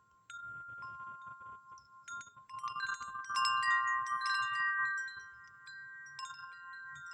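Wind chimes ringing: several pitches struck and overlapping, each note ringing on after it is hit. The strikes come thickest and loudest a few seconds in, then thin out to a few single notes.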